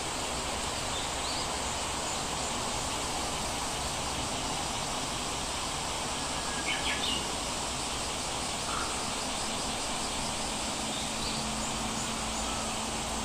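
Steady ambient background hiss with a few brief, high bird chirps: one about a second in, a quick cluster around seven seconds in that is the loudest moment, and another near the end.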